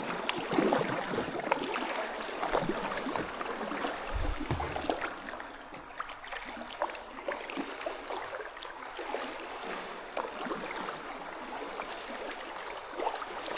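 Kayak paddle strokes in still water: steady splashing and dripping from the blades, with many small splashes and knocks of the paddle.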